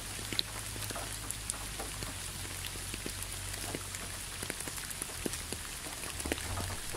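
Light rain falling: a steady soft hiss with many scattered drop ticks, over a steady low rumble.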